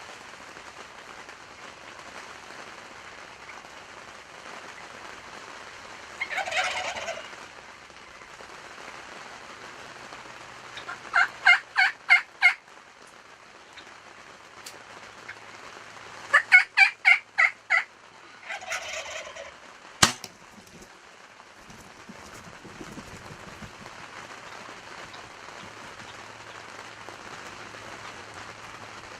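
Wild turkey toms gobbling, two fast rattling gobbles plus rougher calls, over a steady hiss of pouring rain. A single sharp snap comes about two-thirds of the way in.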